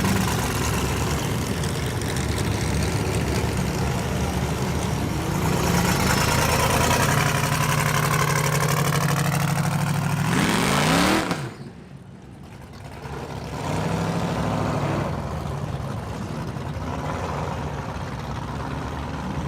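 A car's engine revving hard at high rpm in a burnout, with a loud rushing exhaust and tyre noise. The revs climb and then cut off sharply about two-thirds of the way through, and the engine revs up again a couple of seconds later.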